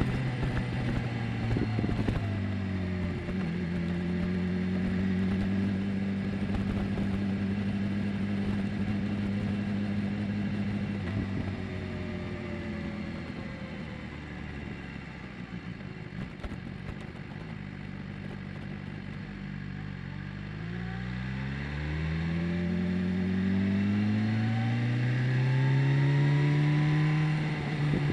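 BMW S1000R's inline-four engine on the move. Its pitch drops at first, then holds steady at cruise for several seconds and goes lower and quieter in the middle. Near the end the pitch climbs twice, with a gear change between, as the bike accelerates.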